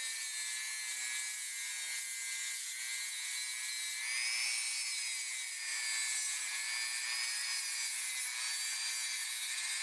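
High-speed rotary tool with an abrasive cleaning wheel scrubbing rust and grime off a steel pipe wrench: a steady motor whine over a rubbing hiss, the pitch dipping briefly a few times as the wheel is pressed into the metal.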